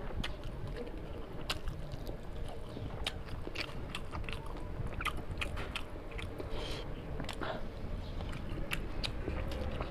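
Close-miked chewing and biting while eating a curry-and-rice meal: irregular wet mouth clicks and smacks, a few each second.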